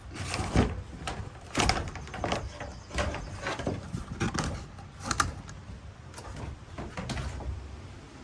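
Gear being handled and set down: a string of separate knocks and scrapes, one every second or so, the loudest about a second and a half in.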